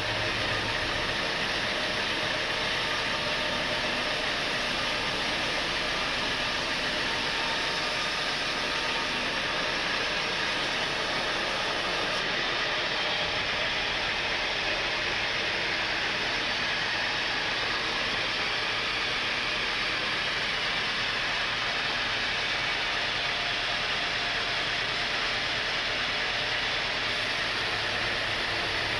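Sawmill saw running with a steady, even noise, as it works through a mahogany log.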